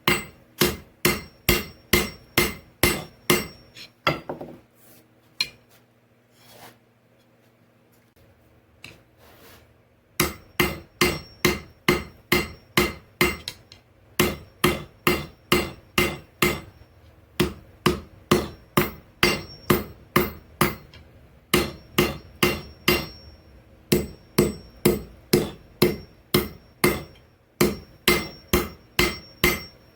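Hammer blows on the steel of an old file being forged into a knife point, about two to three strikes a second. The strikes stop for about six seconds after four seconds in, then resume and run on with brief breaks.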